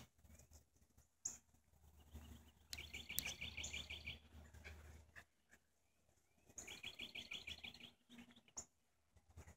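Faint birdsong: a rapid trill of about ten quick, evenly spaced notes, heard twice, each lasting about a second, with short high chirps in between.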